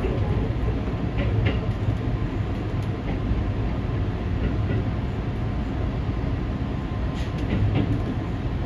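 Steady rumble of the Resort Shirakami express train running along the coast, heard from inside the carriage, with a few faint clicks.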